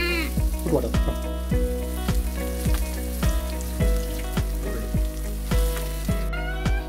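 Sliced onions sizzling as they fry in a pan, under background music with a steady beat.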